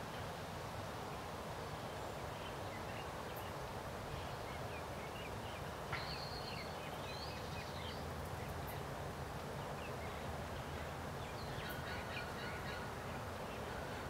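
Bird calls: scattered short chirps, a sharper call about six seconds in and another run of calls near the end, over a steady low background hum.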